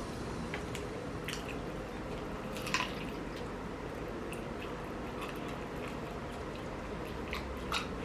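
Close-up eating sounds: wet chewing and smacking of chicken wings, with scattered small clicks and a sharper one about three seconds in and another near the end.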